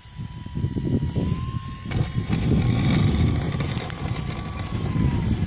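Electric motor and propeller of a Night Visionaire radio-controlled model airplane in flight: a thin high whine that holds its pitch, rises slightly about a second in and falls away near the end as the plane passes. A heavy low rumble lies under it throughout.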